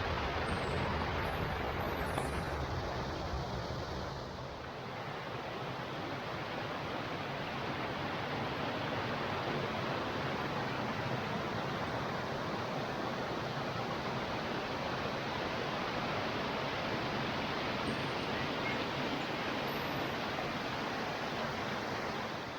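Steady rush of a waterfall's falling water, with a low rumble underneath for the first few seconds.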